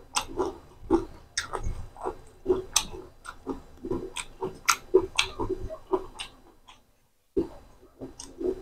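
Wet chewing and lip-smacking of a person eating rice with spicy chicken liver curry, a quick run of smacks about two or three a second. The sound cuts out completely for about half a second near the end.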